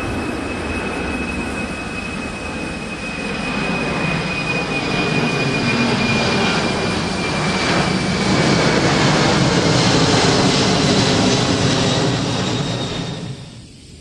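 Jet airliner engines running at high power, a loud rush with a thin fan whine that slowly falls in pitch; the sound swells, then cuts off suddenly about 13 seconds in.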